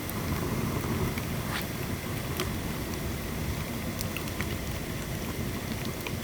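Dry bamboo burning in a pail can in the rain: a steady low rumble of the fire with a few scattered sharp pops and crackles.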